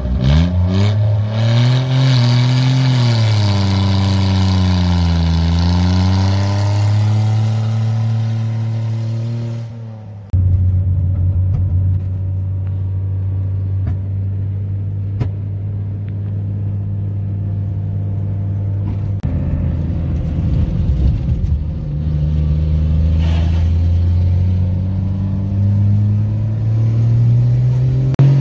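Subaru Justy's three-cylinder engine revving up and down, heard from behind the car. About ten seconds in, the sound gives way to the engine as heard inside the cabin while driving: a steady drone that rises in pitch near the end as the car accelerates.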